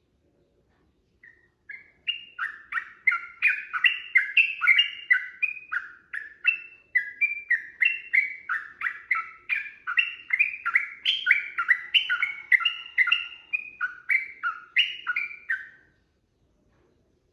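Yellow-vented bulbul singing a long, fast run of clear chirping notes, two to three a second. The song starts about a second in and stops shortly before the end.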